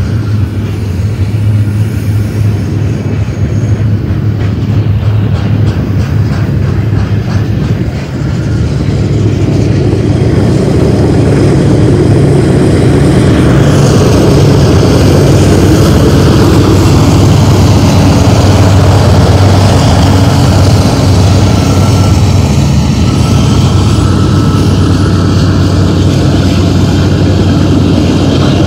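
BNSF double-stack intermodal train passing close by: the cars rolling on the rails together with the steady low drone of diesel locomotives. It gets louder about eight seconds in and stays loud while the locomotives pass.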